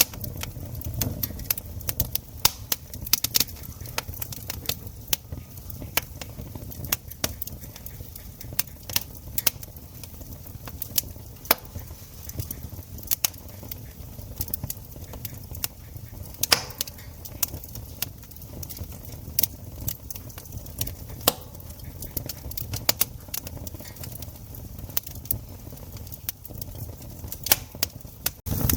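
Campfire wood crackling: irregular sharp pops and snaps, a few louder ones, over a steady low rumble of the burning fire.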